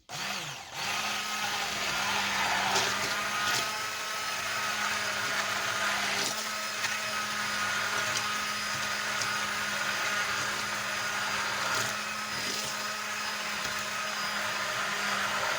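Hand blender running steadily as it purées tahini with garlic, vinegar and water into a sauce. It spins up within the first second and holds an even motor hum, with a few short clicks along the way.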